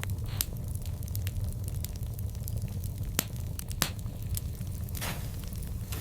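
Burning wood fire crackling: irregular sharp pops over a low steady rumble, with two louder pops a little past the middle and a brief hiss near the end.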